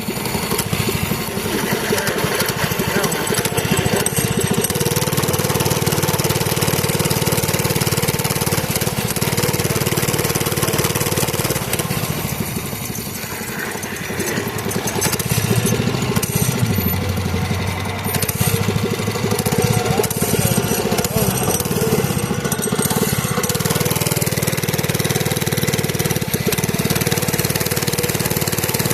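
Mini bike's small engine running steadily under way, easing off briefly about halfway and picking up again.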